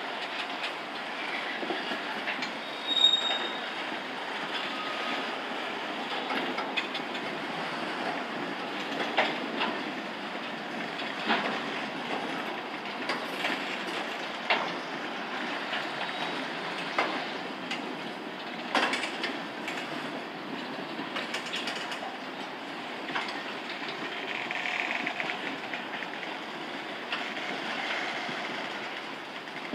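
A train's cars rolling past: a steady rumble with irregular clicks and clanks of wheels over the rail joints, and a brief high wheel squeal about three seconds in.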